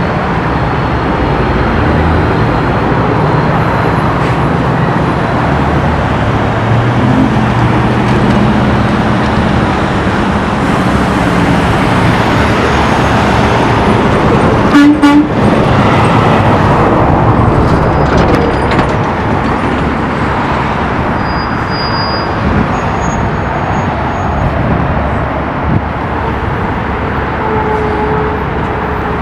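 Semi-truck diesel engines pulling away and accelerating, their low engine note rising over the first several seconds. A short horn blast about halfway through is the loudest moment.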